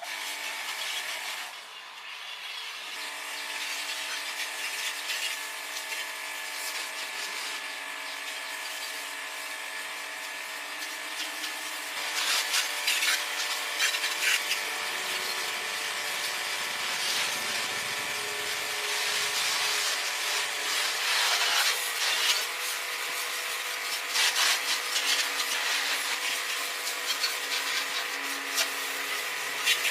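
Handheld electric power tool running steadily and rasping against a workpiece, with the scraping growing louder and more uneven about twelve seconds in, then cutting off abruptly at the end.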